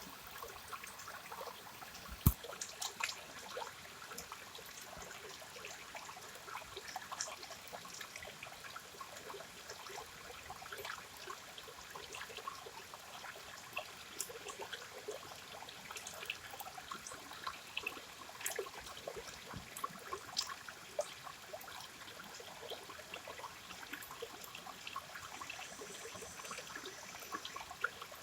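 River water flowing and trickling, with many small irregular splashes and drips over a steady rush. There is one sharper click about two seconds in.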